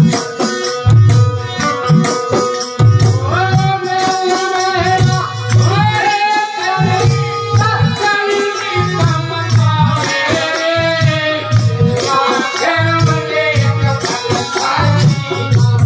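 Devotional bhajan: a sung melody in long, held phrases enters about three seconds in, over a steady low drumbeat, a shaker keeping time and a held drone note.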